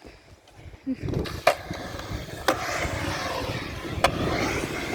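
Skateboard wheels rolling on concrete, starting about a second in, with three sharp knocks from the board along the way.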